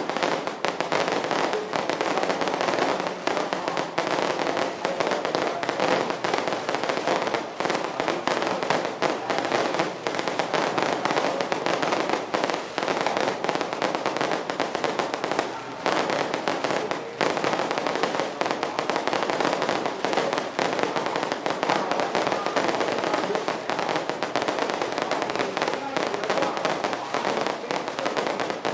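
A dense, continuous barrage of firecrackers and fireworks going off, countless rapid bangs and cracks without a break.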